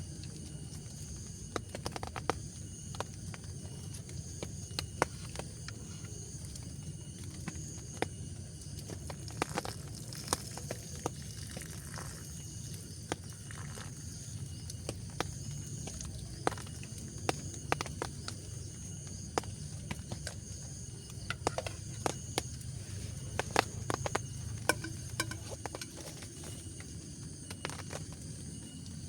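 Scattered raindrops falling irregularly with sharp, separate pattering hits, over a steady insect chorus of thin, high, unbroken chirring.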